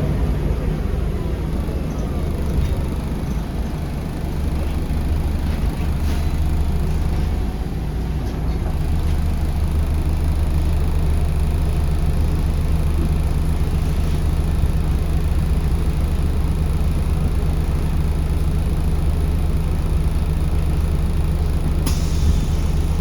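Scania L94UB bus's diesel engine running steadily with a low hum, heard from inside the cabin, with a short click near the end.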